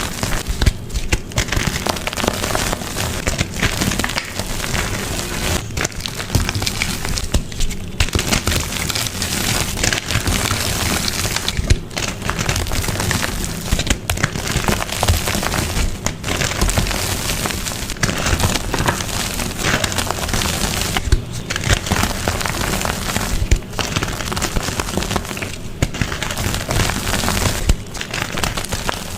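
Dyed gym chalk being crushed, a dense crunching and crackling with brief pauses every few seconds.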